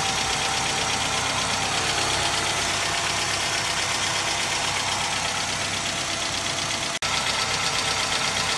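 Warm Hyundai Accent engine idling steadily with a rapid, even knock, which the mechanic diagnoses as worn connecting-rod bearings knocking from oil starvation (only about a litre of oil in the sump).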